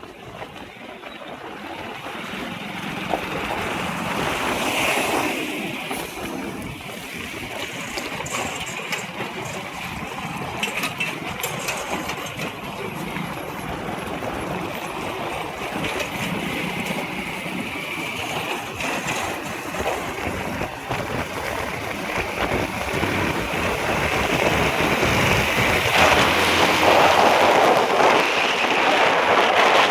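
Road traffic: a steady rush of vehicle and tyre noise, swelling as vehicles pass and growing louder near the end.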